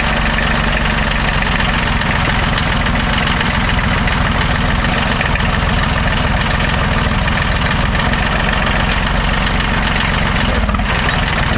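Diesel engine of a Timberjack forwarder running at a steady speed, with a faint steady high whine above the low engine note.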